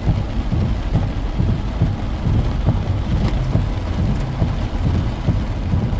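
Heavy tropical-storm rain with a strong, uneven low rumble underneath.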